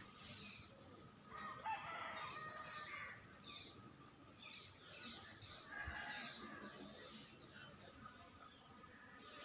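Birds chirping faintly: many short, high chirps repeating every half second or so, with some lower calls among them.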